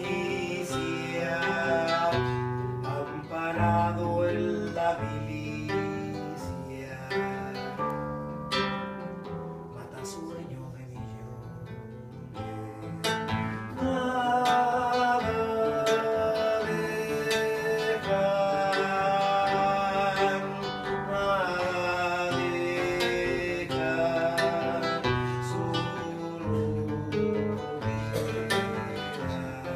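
Acoustic guitar played live in an instrumental stretch of a song, strummed and picked, with some long held melody notes in the middle.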